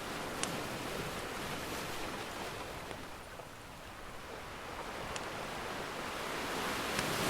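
Ocean surf washing in, ebbing to a low midway and swelling again near the end, with a few sharp pops from a crackling wood fire.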